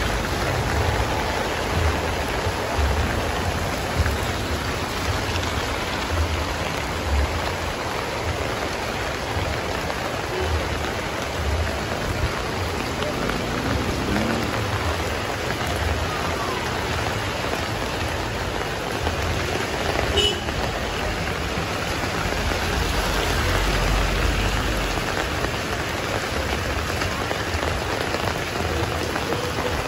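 Heavy rain falling steadily on a wet, puddled street.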